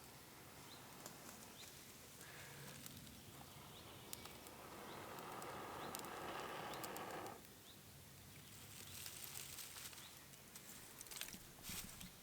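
Faint forest ambience. A short high chirp repeats about every 0.7 s for the first few seconds, then comes a soft hiss, and after about eight seconds a high rustling hiss with scattered small clicks.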